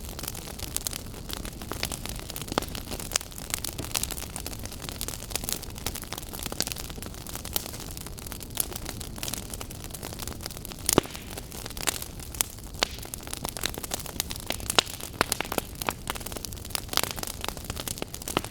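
Firewood burning, crackling with frequent irregular pops, a few of them sharper and louder, over a steady low rush of flame.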